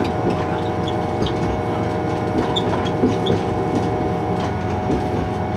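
Train running along the track: a steady rumble and hum with small clicks and rattles from the wheels on the rails.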